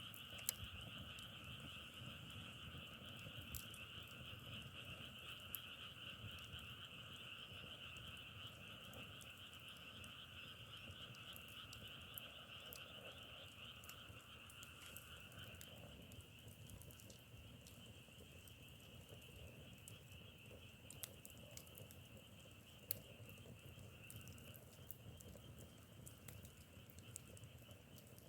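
Faint chorus of frogs calling in a dense, continuous trill, in a high and a lower pitch band; the lower band drops out about halfway through. Scattered sharp clicks sound now and then.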